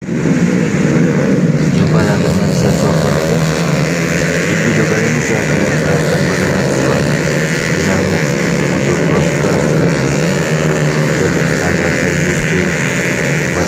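Several underbone motorcycles' engines running and revving together in a race, a loud continuous mix of overlapping engine notes.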